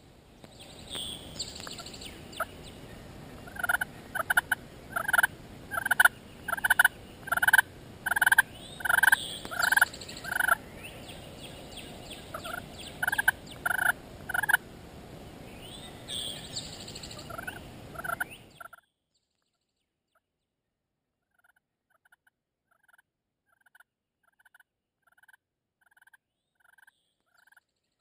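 Turkey yelping: runs of short, evenly spaced notes, about two a second, over a steady outdoor hiss, with faint chirps of small birds in the first few seconds. After about 18 seconds the hiss drops out suddenly and the yelps carry on more faintly.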